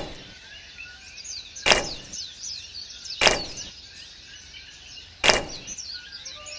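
Four sharp knocks or taps, about one and a half to two seconds apart, each with a brief ring, over background birds chirping.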